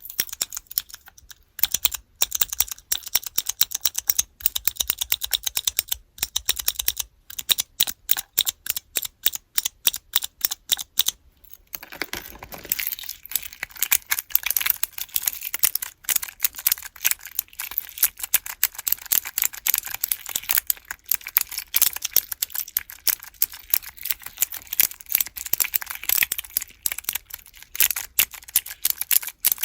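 Keyboard-block keychain with blue clicky mechanical switches being pressed over and over in fast runs of sharp clicks. After a short pause about halfway, the clicking turns denser and scratchier.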